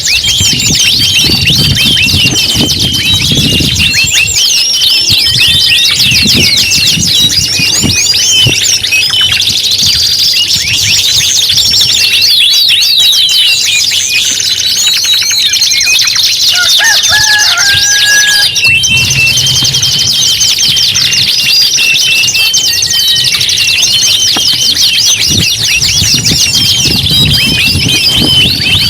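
Several domestic canaries singing at once, an unbroken stream of fast, high-pitched overlapping trills and rolls.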